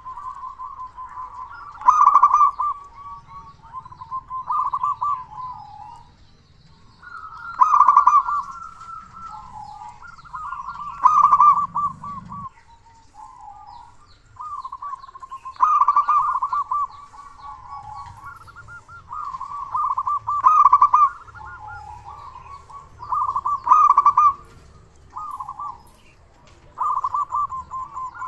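Zebra dove (local perkutut) cooing: loud, rolling, pulsed calls repeated in phrases about every three to four seconds, with softer coos between them.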